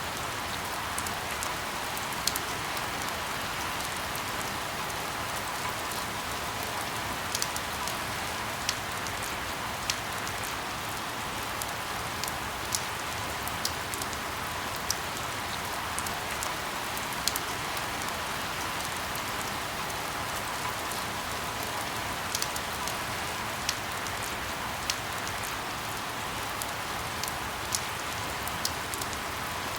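Steady rain, an even hiss, with scattered sharp ticks every second or two.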